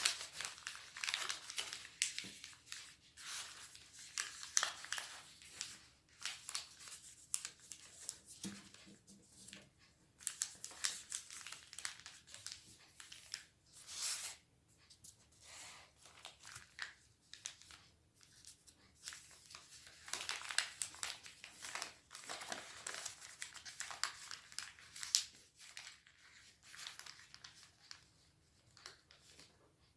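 A sheet of origami paper being handled and folded: irregular crinkling and rustling with sharp crackles as creases are pressed in, broken by short quiet pauses.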